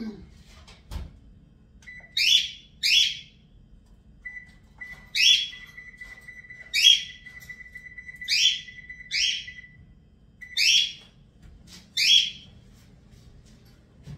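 A bird chirping: about nine sharp, loud calls at uneven intervals, each dropping in pitch, with a thin steady whistle held under them through the middle.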